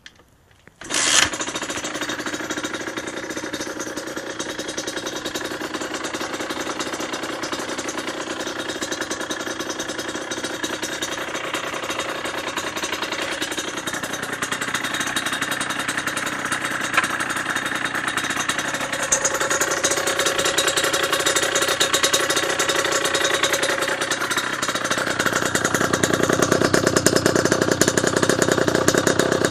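Yamaha DT 50's small two-stroke single-cylinder engine catching suddenly about a second in, then running steadily, growing louder near the end.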